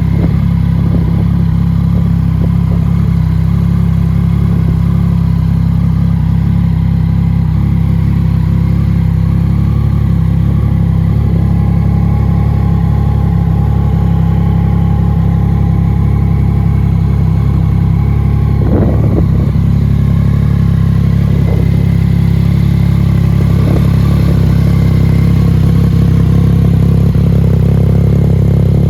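2019 Yamaha MT-09's three-cylinder engine idling steadily through an aftermarket Scorpion exhaust, with one short knock about two-thirds of the way through.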